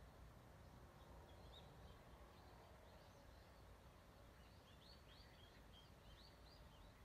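Faint outdoor ambience with a low steady rumble and small birds chirping, the short chirps coming more often in the second half.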